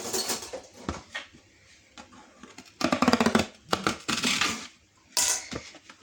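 Aluminum foil being pulled off its roll and handled, a series of irregular crinkling and rattling bursts, the loudest about three seconds in.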